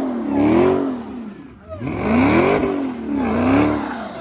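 A car engine revved repeatedly, its pitch climbing and falling back about three times.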